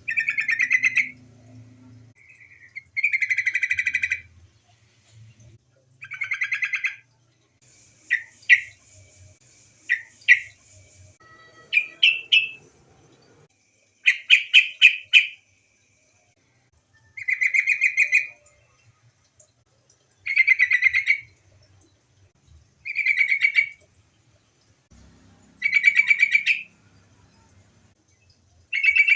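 Female yellow-vented bulbul calling to males: short bubbling phrases about a second long, each a rapid run of pulsed notes, repeated every two to three seconds. A few quicker single notes fall between the phrases near the middle.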